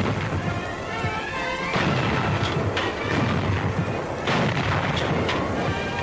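Battle sound effects of gunfire and explosions, about five blasts in six seconds, over orchestral background music.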